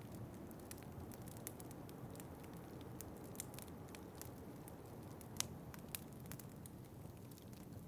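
Wood fire in a fireplace crackling, with irregular sharp pops, the loudest a little past five seconds in, over a steady low rumble of wind.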